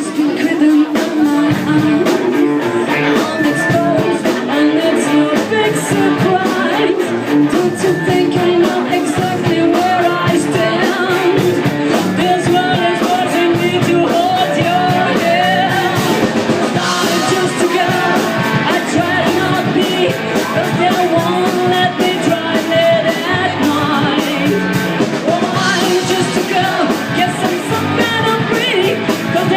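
Rock band playing live, with drums, guitars and a lead vocal singing over a steady beat.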